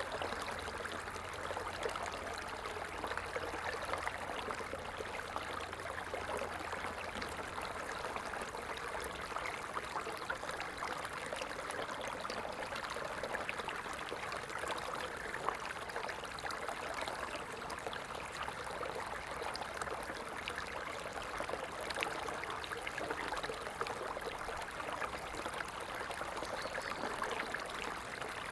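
Stream water flowing steadily, an even trickling and splashing without pause.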